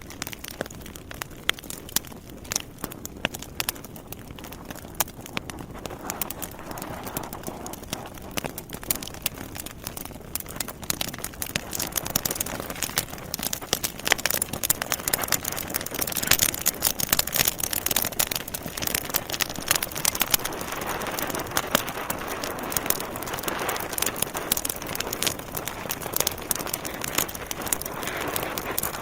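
Wood fire burning in a fireplace: burning logs crackling and popping in dense, irregular snaps over a steady hiss, getting a little louder partway through.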